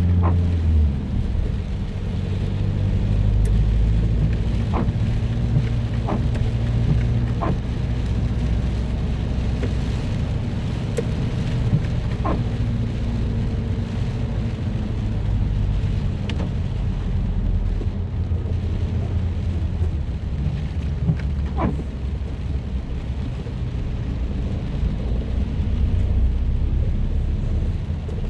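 Car driving in light rain: a steady low rumble of engine and road with a light hiss of rain and wet tyres, and a few faint scattered ticks.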